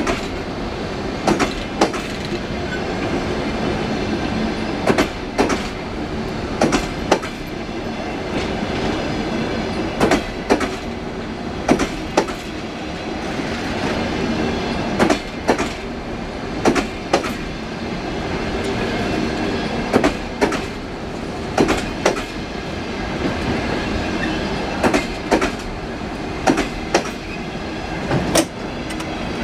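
Passenger coaches of a departing train rolling past, their wheels clicking over the rail joints in close pairs every couple of seconds above a steady rolling rumble.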